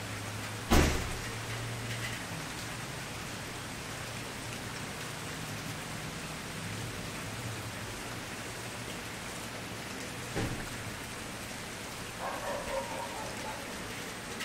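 Wood campfire crackling with a steady hiss, a sharp loud pop about a second in and a smaller pop near the end. A brief separate mid-pitched sound comes shortly before the end.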